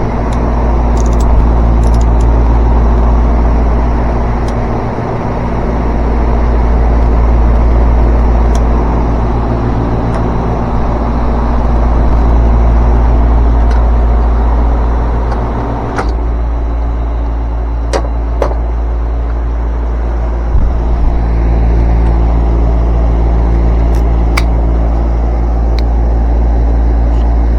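Steady electrical hum from running HVAC equipment, with a loud low rumble that swells and fades every few seconds. A few sharp clicks come in the second half.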